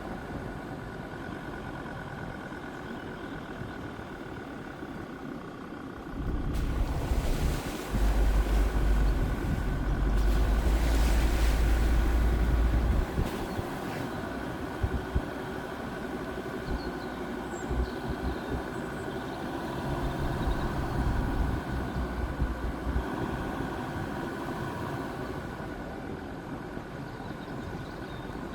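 Jeep Grand Cherokee WJ's 2.7-litre diesel engine running with a steady hum. A heavy low rumble swells in about six seconds in, stays loud for several seconds and then drops back, and returns more faintly later.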